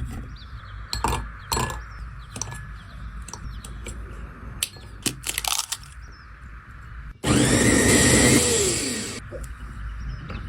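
A few scattered knocks and taps, then about seven seconds in a small electric kitchen blender runs for about two seconds, its pitch falling as it stops.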